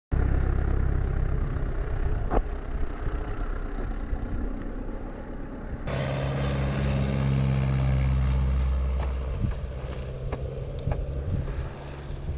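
Piper Super Cub's piston engine running steadily with wind noise. About six seconds in, a cut brings a clearer, steady engine drone with a pitched hum that slowly fades.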